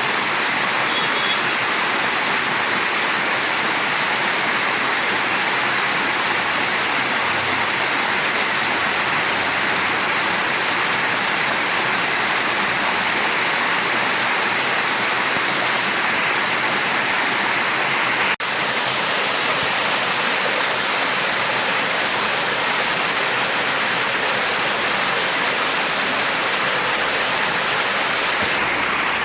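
Mountain stream rushing and splashing over rocks in a steady, even flow. There is a momentary dropout about two-thirds of the way through.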